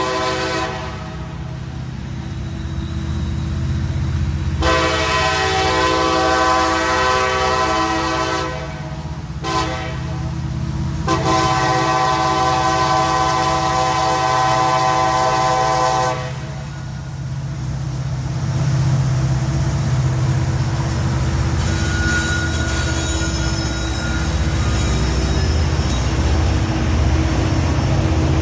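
Diesel freight locomotive's multi-chime air horn sounding the grade-crossing signal: a long blast ending just after the start, another long one, a short one, then a long one that cuts off about 16 seconds in. The train then passes with a steady low rumble of locomotive engines and rolling wheels, with a brief thin wheel squeal a little past the middle.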